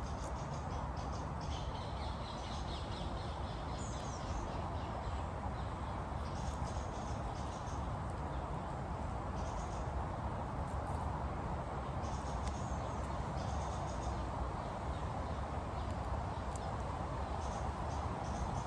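Small birds calling in repeated short bursts of high chirps and twitters over a steady low outdoor background rumble.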